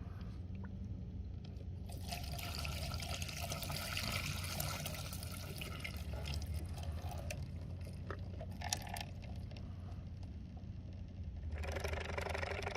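Gasoline pouring in a stream: first for about five seconds, then again briefly near the end.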